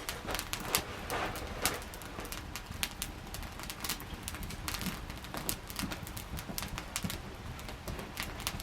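Wood campfire crackling, with irregular sharp pops and snaps over a low, steady hiss.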